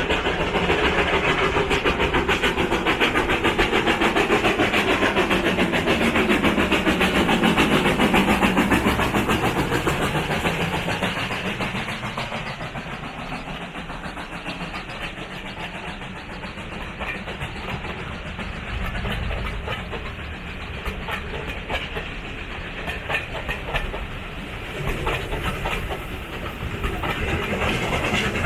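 A steam-hauled heritage train passing, loudest in the first ten seconds with a drop in pitch, then quieter as the carriages follow, their wheels clicking over the rail joints.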